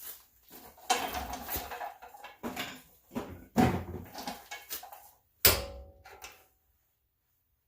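Metal hand tools clattering and clanking in irregular bursts, with one sharp metallic strike about five and a half seconds in that rings briefly.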